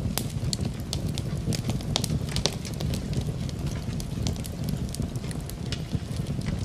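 Wood fire crackling in a fireplace, with frequent irregular sharp pops over a steady low rumble, mixed with falling rain.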